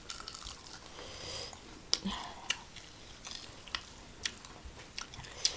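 Close-miked chewing: scattered short, wet clicks and crunches of a person eating with their mouth near the microphone.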